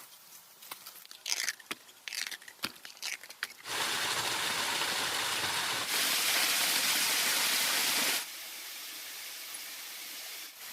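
A run of sharp crunches and cracks. Then, about four seconds in, a loud steady rushing noise starts suddenly, jumps louder and then drops to a quieter steady rush, each change abrupt.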